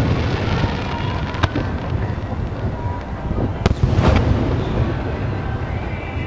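Aerial fireworks bursting: a continuous deep rumble of booms, with sharp cracks standing out a few times.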